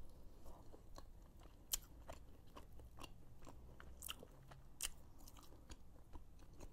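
Close-up eating sounds of a person biting and chewing a sauced barbecue chicken wing: faint wet mouth clicks and chewing, with a few sharper clicks scattered through.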